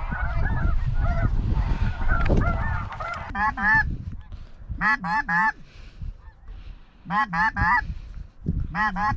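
Snow geese honking: a fainter jumble of calls with wind rumble at first, then loud honks in quick sets of about three, repeating roughly every two seconds.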